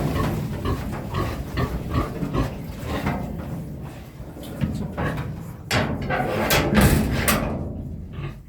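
Pig grunting repeatedly at close range, in short rough bursts that grow louder for a couple of seconds past the middle, then fade near the end.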